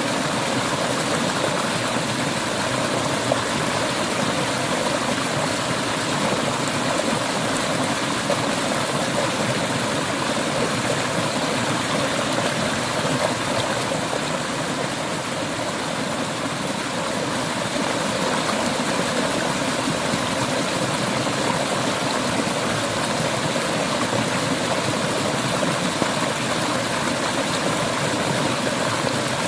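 Clear mountain river water flowing, a steady, unbroken rush of running water.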